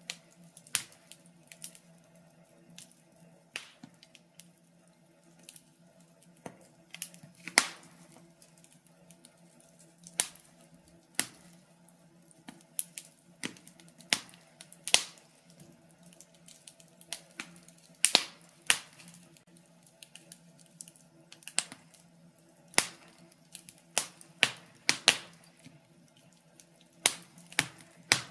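Wood fire crackling in a fireplace, with irregular sharp pops and snaps of varying loudness over a faint steady hum.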